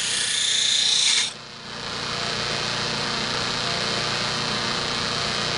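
A horseshoer's knife edge held against a spinning abrasive sharpening wheel, a hissing grind that stops after about a second as the blade is lifted. The wheel's motor then keeps running with a steady hum.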